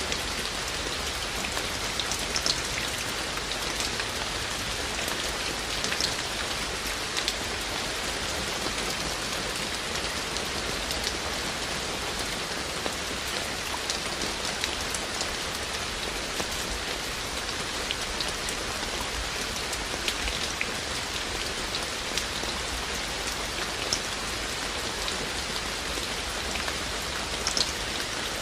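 Steady rain falling, a continuous hiss with scattered close raindrops ticking sharply on a hard surface.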